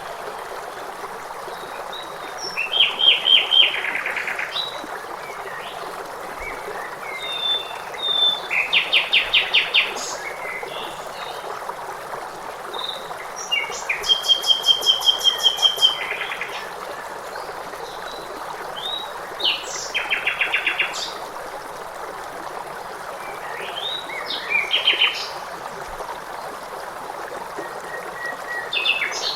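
Songbirds singing short, rapid trills of repeated notes every few seconds over a steady rush of flowing water.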